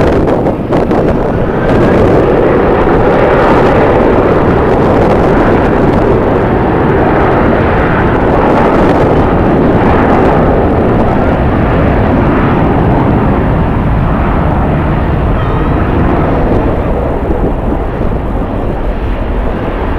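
Jet airliner engines running loud, mixed with strong wind buffeting the microphone; the engine noise eases off somewhat in the last few seconds.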